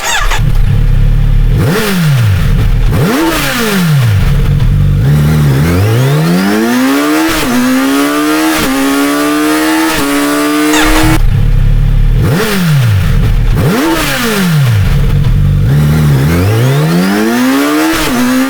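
Kawasaki Z900RS Cafe's inline-four engine through a GRmoto X Series aftermarket exhaust, revving up and down repeatedly. It gives several quick blips that rise and fall back, and a few longer climbs in pitch, each broken by a sudden short drop.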